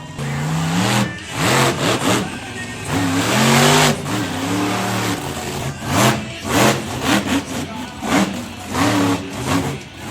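Monster truck engine revving hard, its pitch rising and falling in repeated surges, with a loud noisy peak about three to four seconds in and several short, sharp throttle blips in the second half.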